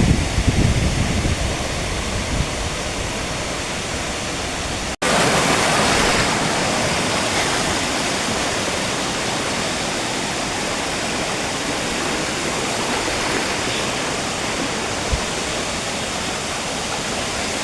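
Rushing water of a rainforest creek and waterfall, a steady even rush, with a few low rumbles in the first second. About five seconds in it cuts out abruptly and comes back louder and brighter.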